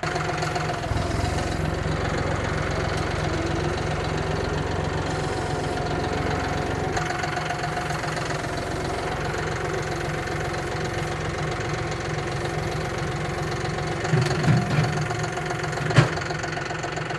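Tractor engine running steadily, with a single sharp knock near the end.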